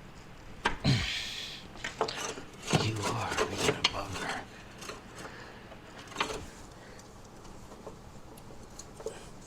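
Hand tools and metal parts clattering and scraping while working in a car's engine bay: a few sharp knocks about a second in, about two seconds of rattling and scraping, then a single knock around six seconds in.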